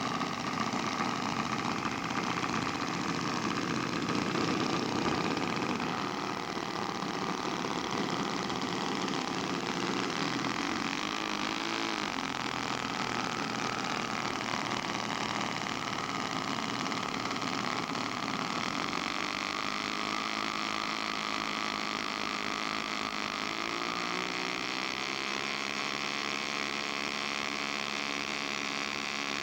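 Radio-controlled scale model airplane engine running in flight. In the second half its tone steadies into a clear note that shifts in pitch as the plane throttles or passes by.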